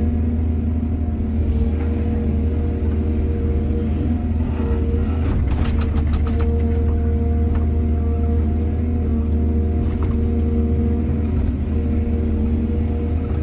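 Excavator's diesel engine running steadily with a deep hum, with a cluster of clanks and rattles about five to six and a half seconds in.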